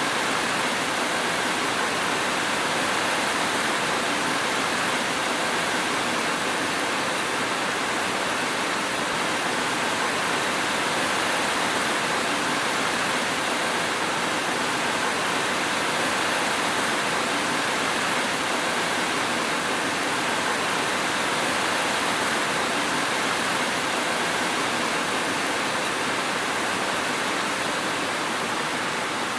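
Steady, unbroken rain hiss with no thunder or separate drops standing out.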